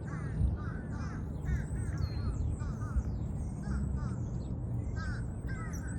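A crow cawing over and over in short calls, with small birds chirping higher up.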